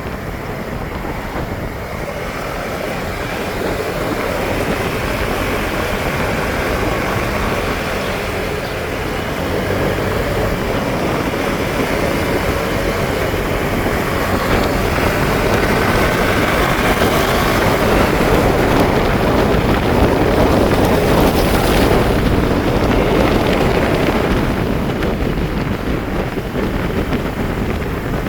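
Motorcycle ride: the engine running under wind rushing over the microphone, growing louder through the middle as the bike picks up speed.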